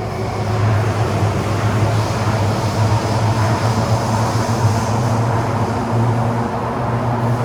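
Kawasaki-CRRC CT251 metro train heard from inside the carriage while running at speed: a loud, steady low hum with wheel-and-rail rumble and rushing noise over it. The train's wheels have flat spots, the condition the recording is meant to capture.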